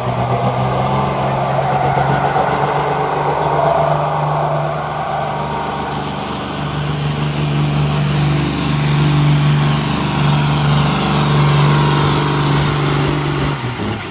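Engine of a pulling vehicle running hard and loud under load as it drags the weight-transfer sled, then cutting off abruptly about a second before the end.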